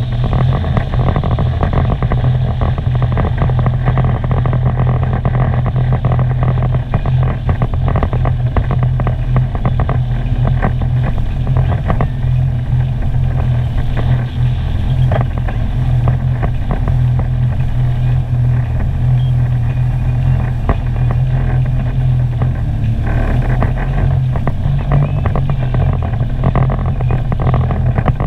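Sea-Doo personal watercraft engine running at a steady cruise, a constant drone with the rush of wind and water over it.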